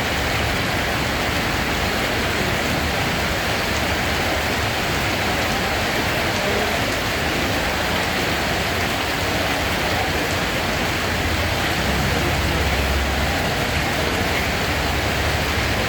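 Steady rain falling, an even dense hiss that holds at one level throughout. A brief low rumble sits under it about twelve seconds in.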